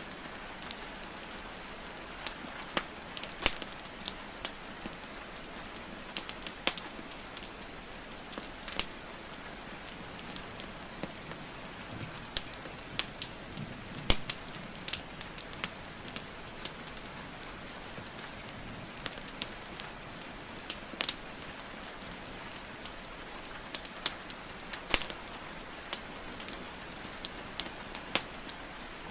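Wood fire crackling and popping, irregular sharp snaps, some loud, over a steady hiss of rainfall.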